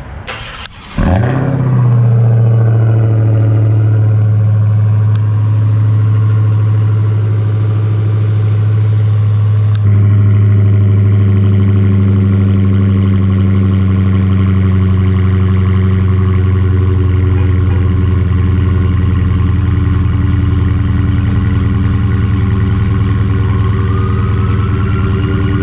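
2020 Dodge Charger Hellcat's supercharged 6.2-litre Hemi V8 firing up about a second in with a quick rev flare, then settling into a steady, deep idle. The idle steps up slightly in loudness and tone about ten seconds in.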